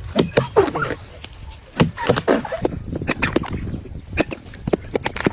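Hand tools knocking irregularly on wood, a string of sharp strikes of uneven spacing.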